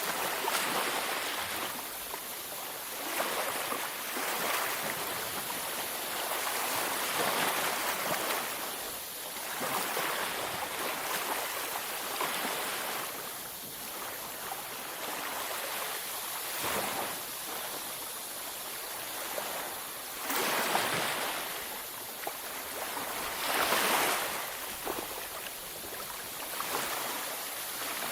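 Ocean waves breaking and washing up a beach, a steady hiss of surf that swells every few seconds, with one stronger wave near the end.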